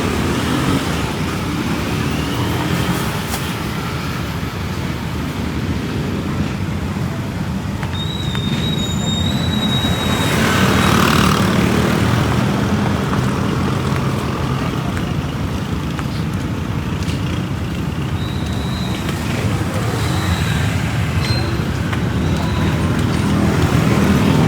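Street traffic: vehicle engines running steadily. About eight seconds in a thin high squeal starts, followed by a hiss lasting a couple of seconds.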